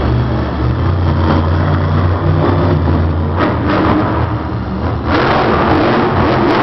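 Monster truck's supercharged V8 running loud, its pitch shifting as it revs, getting louder and harsher about five seconds in.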